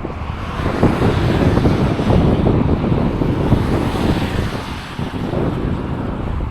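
Wind buffeting the microphone: a loud, gusty rumble, with a rushing hiss that swells in the middle.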